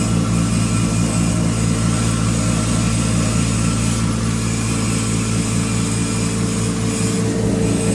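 3 HP coriander (dhaniya) grinding machine running steadily with a constant hum.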